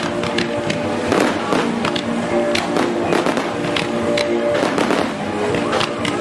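Fireworks going off in a rapid, irregular string of sharp cracks and pops, with music playing underneath.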